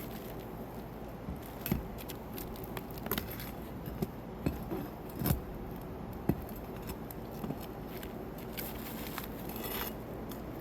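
Irregular metal clinks, knocks and scrapes of hand tools working at rusted roofing nails in a shingle, with a longer rasping scrape near the end.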